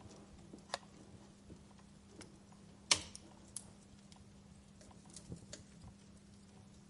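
Wood fire crackling: scattered sharp pops and snaps, the loudest about three seconds in, over a faint steady hum.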